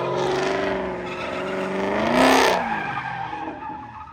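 Car engine revving hard, rising in pitch, with tyres squealing loudest about two seconds in; then the engine note drops and fades away.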